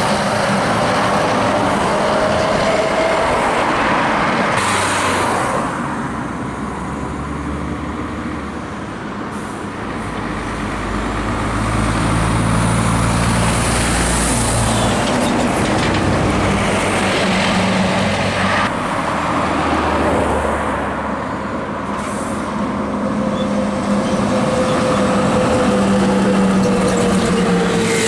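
Diesel trucks driving past one after another, their engines running and swelling and fading as each goes by, over steady road noise.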